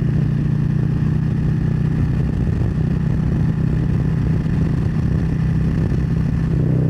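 Harley-Davidson Street Glide Special's V-twin engine running steadily at highway cruising speed, with wind and road noise over it.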